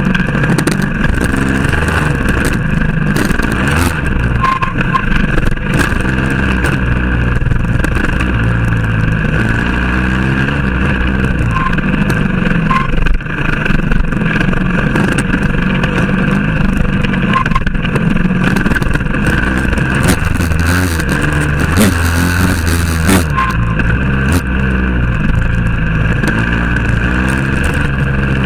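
Motorcycle engine running under constantly changing throttle, its pitch rising and falling again and again.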